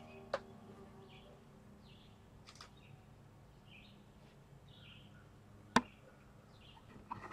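Quiet outdoor ambience with birds chirping here and there, as the last notes of a piano die away in the first second. A sharp click comes just after the start and a louder one about six seconds in, with a few knocks near the end.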